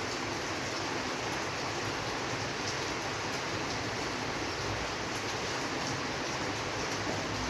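Steady rain, an even hiss of falling water with faint scattered drop ticks.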